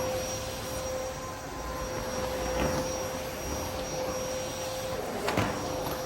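Vacuum cleaner running steadily with a constant motor whine over its airflow noise. Two brief knocks come through, one about two and a half seconds in and a louder one about five seconds in.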